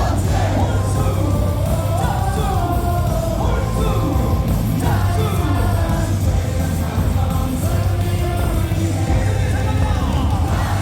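Baseball stadium cheer music over the loudspeakers with a steady heavy beat, and a large crowd of fans singing and yelling along.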